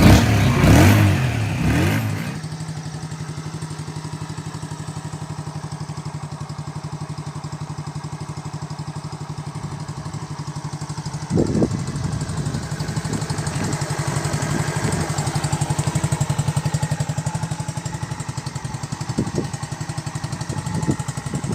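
A motorcycle engine idling steadily in neutral with a fast, even beat. It is louder for the first two seconds and picks up briefly about halfway through.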